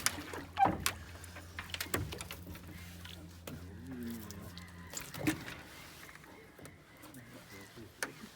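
A low steady motor hum that cuts off about five seconds in, with scattered sharp knocks and clatters around it.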